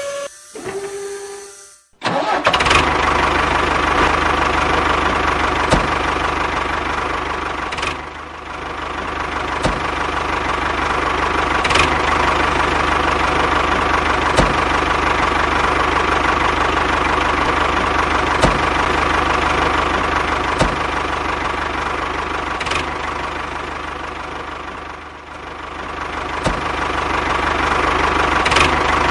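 A small motor running steadily after a brief bit of music, with a light click about every two seconds and two short dips in level.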